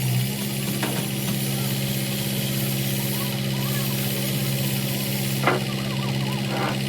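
An engine running steadily at idle, a constant low hum, with a few short sharp knocks, the loudest about five and a half seconds in.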